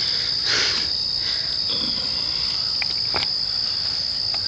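Night-time insect chorus: a steady, unbroken high-pitched trill, with a soft rustle about half a second in and a few faint clicks near the three-second mark.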